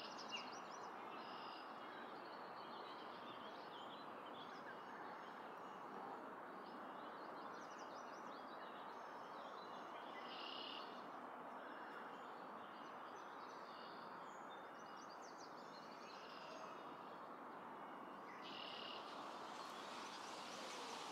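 Faint bird chirps, short high calls coming every few seconds, over a steady background hiss.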